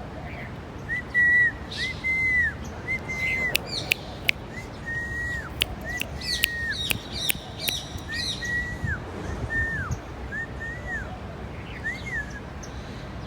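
A pet parrot giving a long series of short whistled notes, each rising and falling around the same pitch. There are a few sharp clicks and quick upward chirps partway through.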